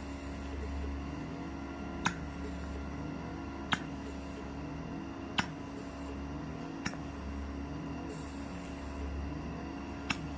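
Suction RF beauty-machine handpiece running during a treatment: a steady pump hum with a sharp click about every second and a half to two seconds.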